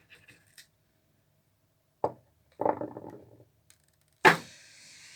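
A sharp knock about two seconds in and a short clatter of handling noise after it. A louder knock comes about four seconds in, followed by a steady hiss.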